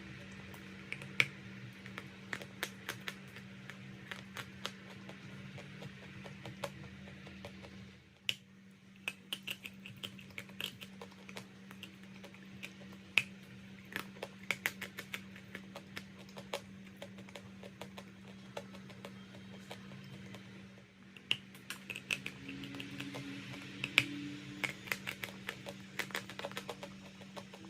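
Brittle chalk crunching and cracking in irregular sharp snaps, several a second in clusters, over a steady low hum.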